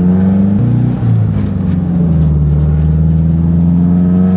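Nissan 240SX S14 engine running loud under way, heard from inside the cabin while driving. Its pitch briefly jumps and then drops about a second in, then climbs slowly and holds steady.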